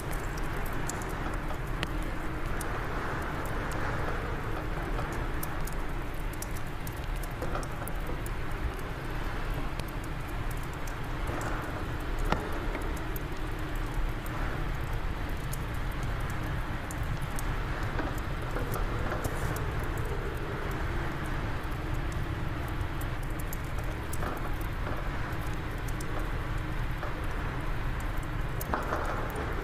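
Fireplace fire crackling, with many small irregular pops, over a steady low rush of wind.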